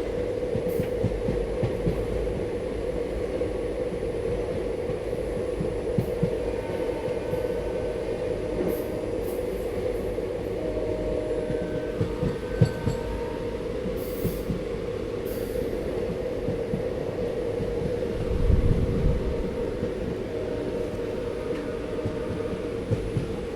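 Passenger train running along the track: a steady rumble of wheels on rail, with scattered sharp clicks and a heavier low thump about three-quarters of the way through.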